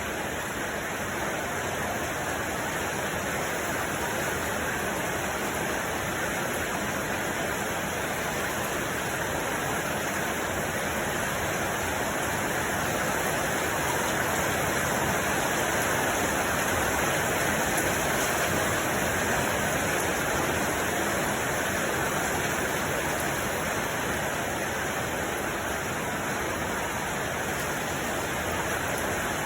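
Steady, unchanging rushing noise, like falling water, swelling slightly about halfway through.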